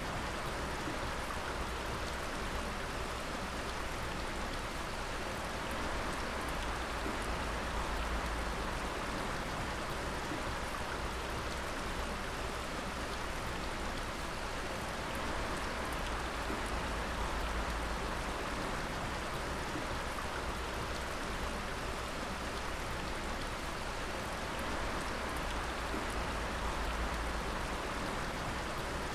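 Water dripping and splashing steadily: many drops falling at once into a dense, even spatter, like rain.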